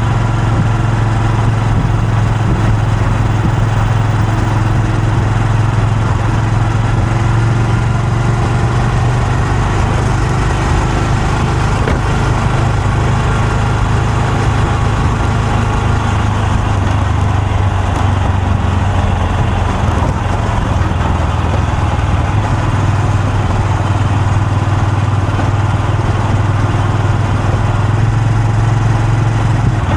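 Honda Super Cub C125's air-cooled single-cylinder four-stroke engine and exhaust running steadily. The pitch dips slightly about halfway through and comes back up near the end.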